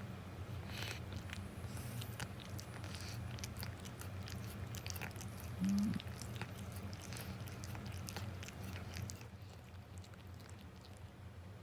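An elderly cat eating, with many small wet clicking mouth sounds of chewing and licking, and one short, low cat call about six seconds in.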